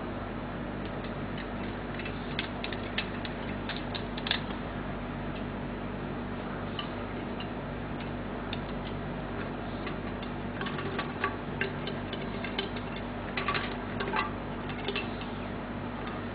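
Irregular small clicks and taps, some in quick clusters, over a steady low hum.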